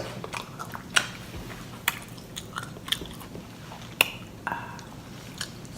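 A person eating close to the microphone: chewing with sharp wet smacks and mouth clicks at irregular moments, several times.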